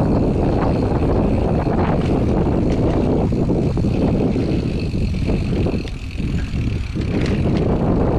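Mountain bike rolling on a dirt trail: steady wind rush on the camera microphone and tyre rumble, with brief knocks and rattles from bumps. The noise dips for a moment about six seconds in.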